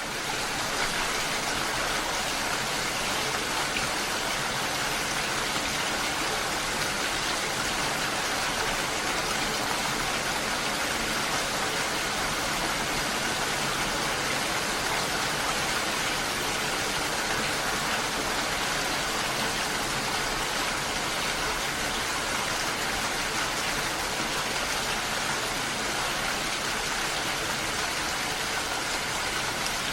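Steady, even rushing of water, like heavy rain or a stream, fading in at the very start and then holding unchanged.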